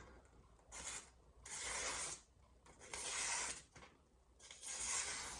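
Freshly sharpened VG10 santoku chef knife slicing through paper in four separate strokes, each under a second long, a dry scraping rasp as the edge draws through the sheet; the cuts test the sharpness of the new edge.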